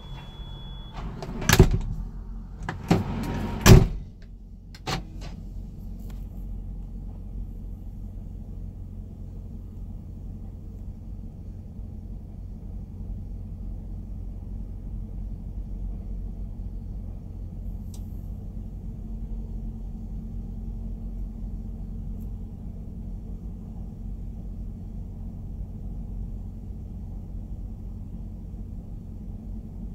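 Grain train of covered hopper cars rolling past with a steady low rumble. A few sharp, loud knocks sound in the first five seconds.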